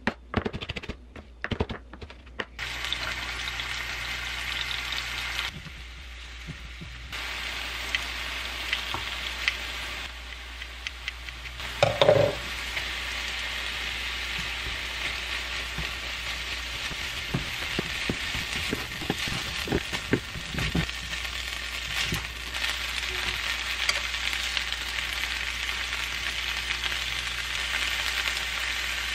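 Kimchi and rice frying in a nonstick grill pan, a steady sizzle stirred and scraped with a silicone spatula, with a soft thump about twelve seconds in as the rice goes into the pan. It opens with a few sharp knocks of kimchi being cut on a board.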